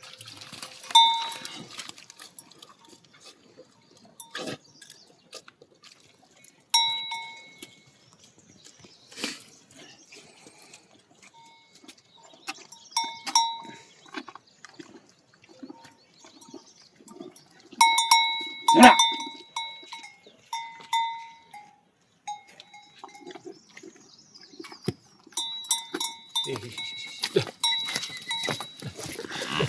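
A metal bell clanking in short, irregular bursts every few seconds, each stroke ringing briefly. The loudest cluster comes about two-thirds of the way through.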